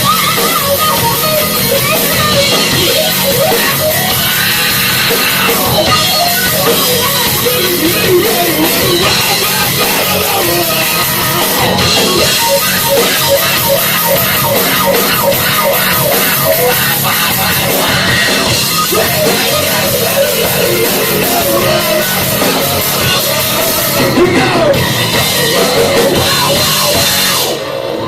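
Live heavy metal band playing at full volume: distorted electric guitars over a pounding drum kit, with the music stopping near the end.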